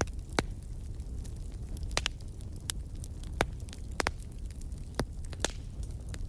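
Wood fire crackling in a fireplace: sharp, irregular pops and snaps about once a second over a low, steady rumble of flame.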